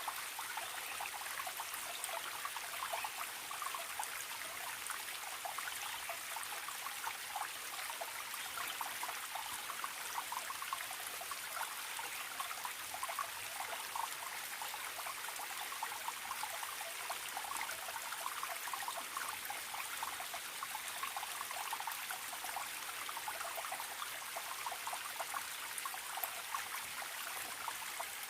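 Small forest stream trickling and gurgling steadily: an even rush of water with many quick little splashes.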